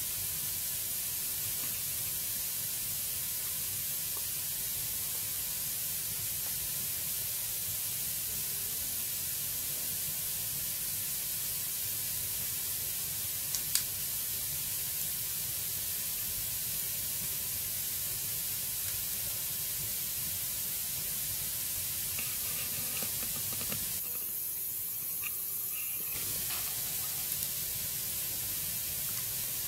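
Wood fire burning in a fireplace: a steady hiss, with one sharp crackle about 14 s in and a few faint ticks near the end.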